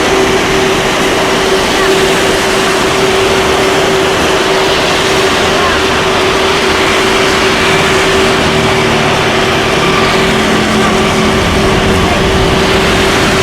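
Airliner engines running at takeoff power: a steady, loud noise carrying one steady tone that fades out near the end.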